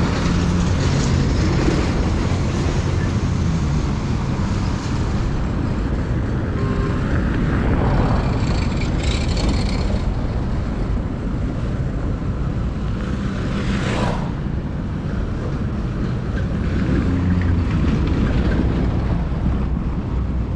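Motor vehicle engine running steadily under wind and road noise while travelling. Other vehicles pass with a brief rush about 8 and 14 seconds in.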